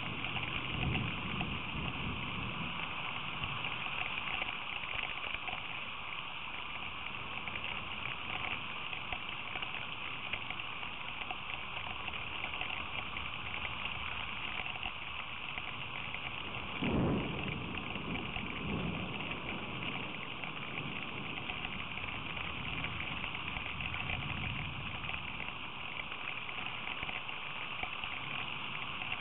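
Steady rain falling on the outdoor camera. About seventeen seconds in there is one brief low thump or rumble.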